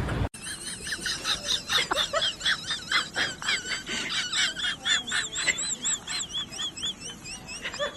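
A chorus of small animals' high, warbling calls, many overlapping, several a second.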